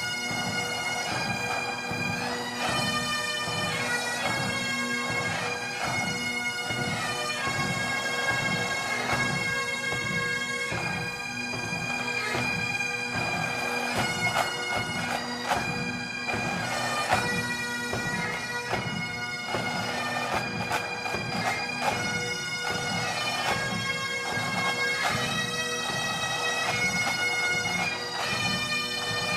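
Bagpipe music: a tune played over steady, unbroken drones, with quick ornamental notes between the melody notes.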